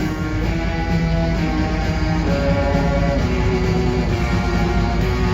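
Live pop-rock band playing an instrumental passage between vocal lines: guitars over bass and drums, loud and steady.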